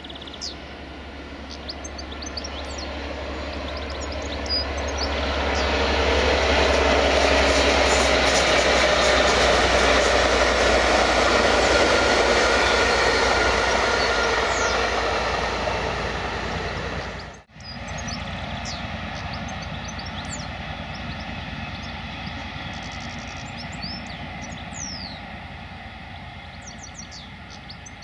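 Diesel-hauled passenger train approaching and passing close: a low engine hum with the rising rush and rumble of the coaches on the rails, loudest in the middle. About 17 seconds in it cuts off abruptly, leaving the fainter rumble of a train running away in the distance, with birds chirping.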